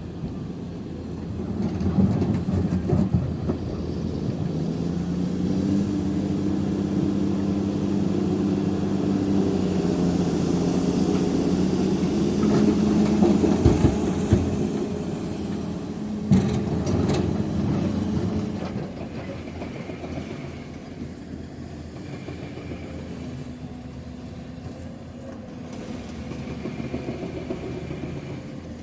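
Heavy diesel dump truck engine running under load; its note rises about five seconds in and holds steady, with a few knocks partway through, then it fades to a lower running sound after about eighteen seconds.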